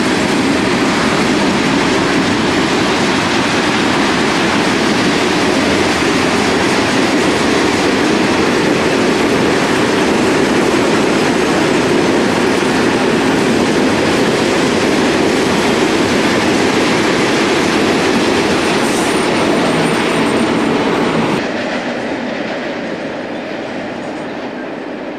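Freight train of rail tank wagons rolling past close by: a steady, loud rolling rumble of wheels on rail. Near the end the sound drops quickly and fades as the train moves away.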